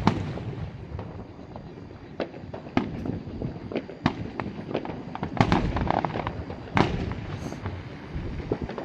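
Aerial fireworks bursting at a distance: a string of irregular sharp bangs over a steady low rumble, the loudest bangs coming a little past halfway.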